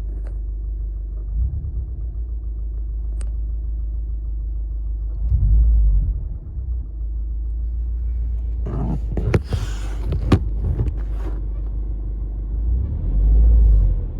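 2013 Subaru WRX flat-four engine running with a steady low rumble, swelling louder briefly a few times, carrying a noise that has been getting louder, which the owner suspects is either normal injector tick or rod knock. A short rustling stretch with sharp clicks comes about nine to eleven seconds in.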